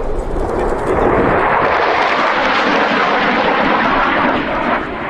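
Jet aircraft passing overhead: the engine noise swells about a second in, holds loud, and begins to fade near the end.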